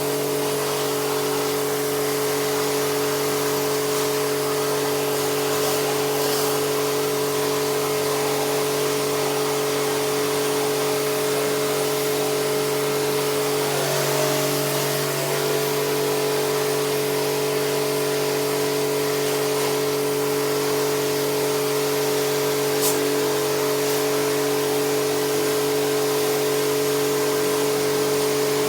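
A machine used in air conditioner servicing running steadily, with a constant hum and an even hiss.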